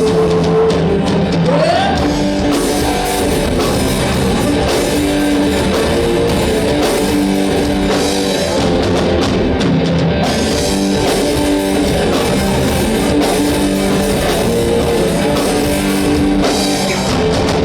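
Rock band playing live: electric guitar and drum kit, steady and loud, with some singing.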